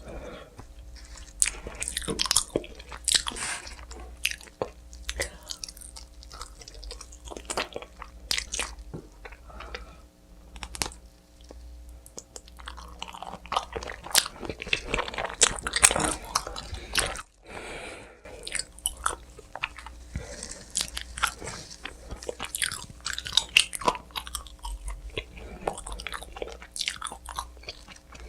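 Close-up chewing and biting of pizza with crunching of the crust, heard as a steady run of irregular sharp crackles. It is busiest about halfway through.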